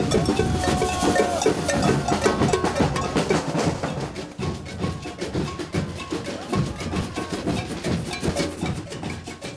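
Drums beating loudly and irregularly, with sharp cracks and a brief held note about half a second in.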